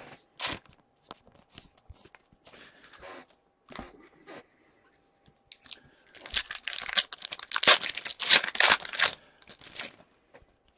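Foil wrapper of a hockey card pack being torn open and crinkled: a few light handling clicks, then a dense run of tearing and crackling from about six seconds in to near the end.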